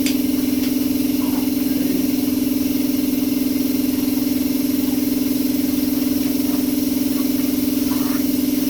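Small electric air compressor running with a steady, even drone while inflating an inner tube.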